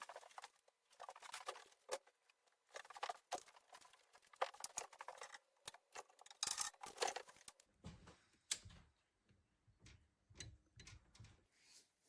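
Faint, scattered light clicks and taps of small hard objects being handled, irregular and with short pauses.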